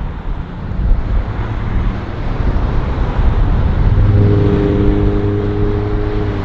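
Road traffic with wind rumbling on the microphone; about four seconds in, a vehicle engine's steady hum comes in close by.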